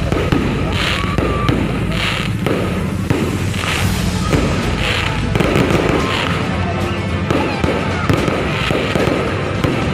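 Fireworks going off in a rapid series, bursts and crackling about once a second, over music.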